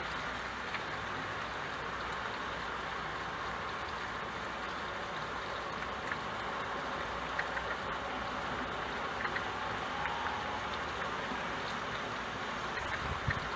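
Steady rain: a constant, even hiss with scattered faint drip ticks.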